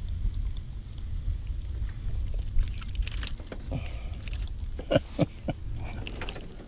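Scattered knocks and clicks of a fish and fishing tackle being handled in an aluminium jon boat, over a steady low rumble.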